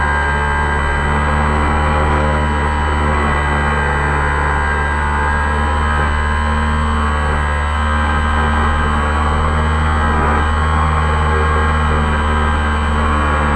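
Multirotor drone's motors and propellers running with a steady buzzing hum made of several held tones.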